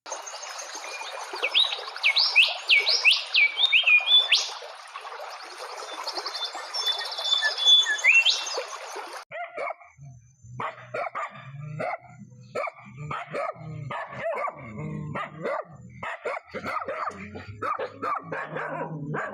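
Animal calls from two different clips. First, for about nine seconds, there are high chirping calls over a steady hiss. After a sudden cut comes a run of short, low, repeated calls that sound like barking.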